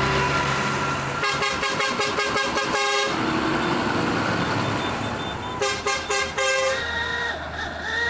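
Vehicle horns tooting over engines running, with two spells of rapid repeated horn blasts, the first about a second in and the second near six seconds in.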